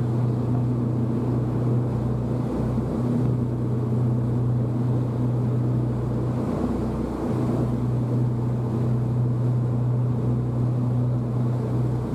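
A boat's engine running steadily with a deep, even hum, heard on board, with a wash of water and wind noise beneath it.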